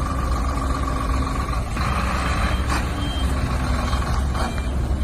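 Heavy truck engine running with a steady low rumble. A short hiss of air comes about two seconds in, with a click after it and a briefer hiss near the end.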